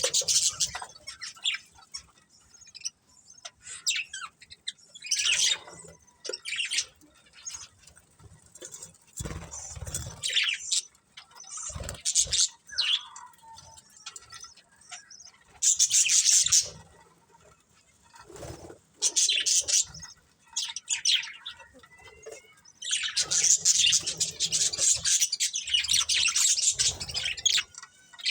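Budgerigars chirping and chattering in short, irregular bursts, with a longer stretch of busy chatter near the end. A few brief low thuds are heard about a third of the way in.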